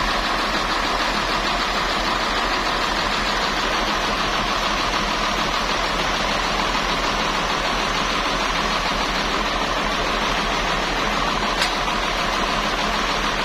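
An engine running steadily at constant speed, with no change in load, and a single sharp click near the end.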